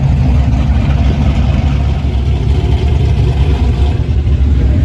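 A car engine running steadily at low revs, loud and deep.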